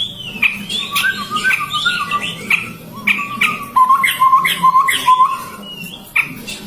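Chestnut-rumped babblers calling: sharp, scratchy chirps mixed with a run of short, lower whistled notes repeated about three times a second.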